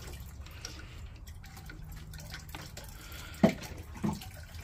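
Water dripping and trickling in a plastic water-play toy, with two sharp clicks about half a second apart near the end, the first the louder.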